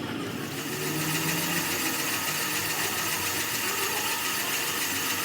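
Steady mechanical running noise with a strong hiss, growing louder about half a second in and then holding even.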